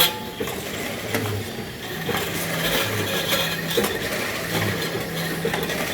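A 1 kg sugar packing machine running through its repeating cycle. A low motor hum shifts pitch about every second and a half to two seconds, with mechanical clicks and knocks from its moving parts.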